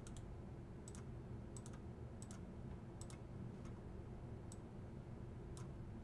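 Faint clicking from a computer's controls, single and paired clicks about once a second, over a low steady hum.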